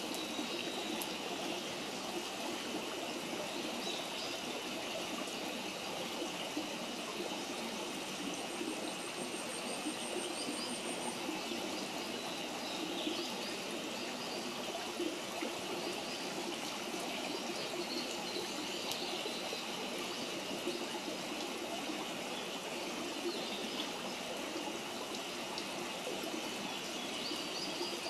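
Steady rush of running water from a stream, with a few bird chirps and a short fast ticking call partway through.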